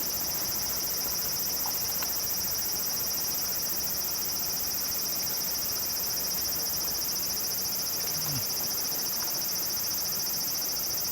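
Steady chorus of insects chirring, high-pitched with a fast, even pulse.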